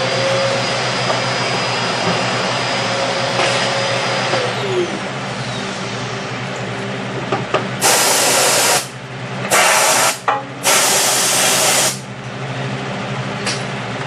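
Three loud blasts of compressed air, each about a second long, blowing dust from refrigerator coils over a steady motor hum.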